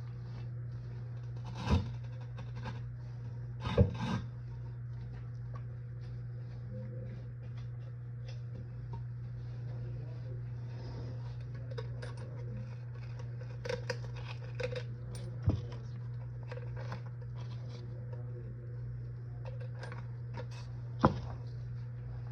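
Steady low hum with scattered clinks and scrapes of things being handled, and a few sharp knocks, the loudest about four seconds in.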